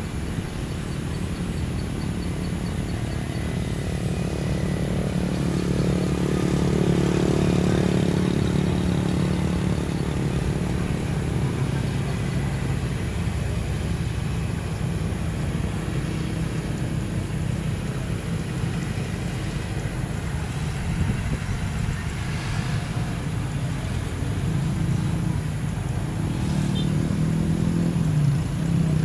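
Engines running steadily, growing louder around seven seconds in and again near the end.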